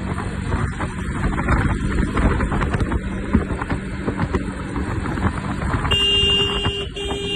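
Motorcycle riding with engine rumble and wind buffeting the microphone. About six seconds in, a vehicle horn sounds a long honk, stops briefly, then honks again.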